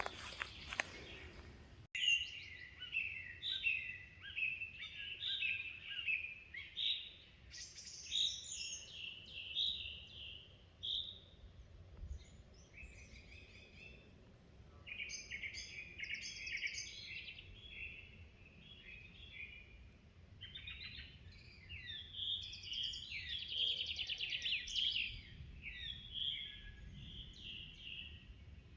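Songbirds singing: several bursts of rapid, high twittering phrases a few seconds long, with short pauses between. For the first two seconds there are a few crunching clicks, then an abrupt cut.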